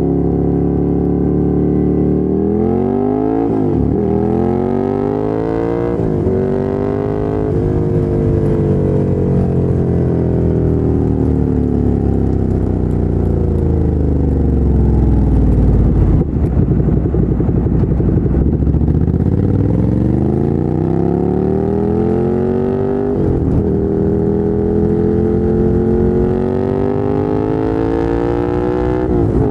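Ducati Monster 797's 803 cc air-cooled L-twin through a LeoVince LV-10 exhaust, pulling hard through several quick upshifts, each a rise in revs followed by a sudden drop. About eight seconds in the revs fall slowly for several seconds as the throttle is rolled off, then the engine pulls up through the gears again with two more upshifts near the end.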